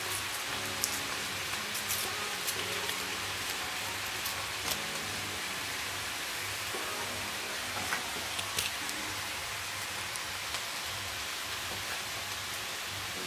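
Vegetable stir fry sizzling in a pan over a gas flame: a steady hiss with scattered small pops and crackles.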